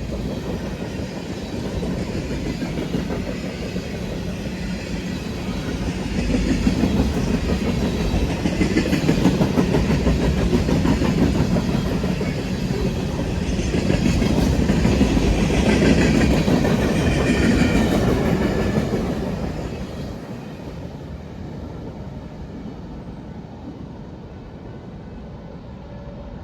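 Train passing on the tracks: steady wheel-on-rail rolling noise with clickety-clack. It builds to its loudest through the middle and dies down over the last few seconds.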